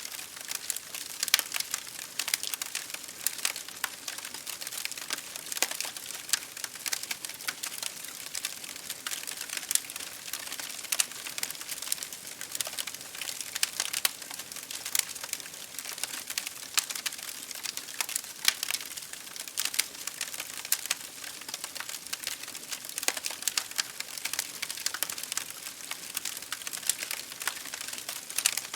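Wood fire crackling and popping: dense, irregular sharp snaps and ticks over a steady hiss of burning.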